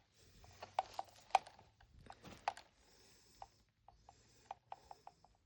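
Small plastic toy pieces and a toy fridge being handled: a string of irregular light clicks and taps, a few louder ones in the first half.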